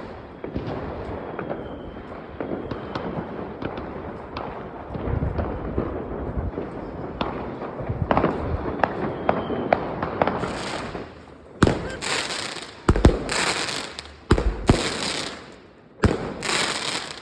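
Fireworks and firecrackers: a continuous crackle of many distant bangers and rockets with scattered pops, then from about ten seconds in a run of loud, close bangs, roughly one every half second to second.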